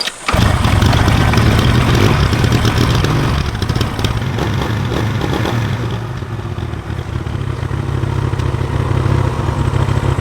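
Motorbike engine starting abruptly and running for a test after repair, with a deep steady running note. It is louder over the first couple of seconds, then settles.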